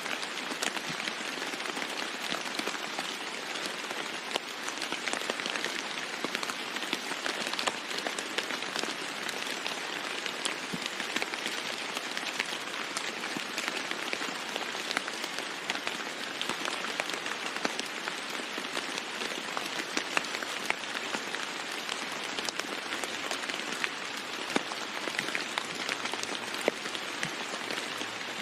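Steady rain falling on a roof, with many single drops ticking sharply through the even hiss.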